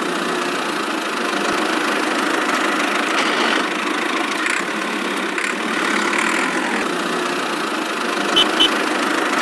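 Small motor of a miniature model vehicle running steadily, with two short high clicks near the end.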